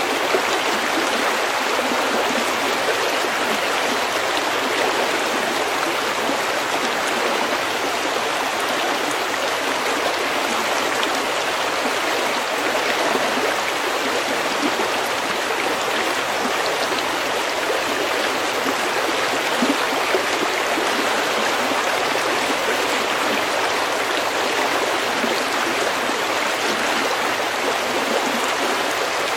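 A stream running steadily over stones, with a continuous even rush and gurgle of water.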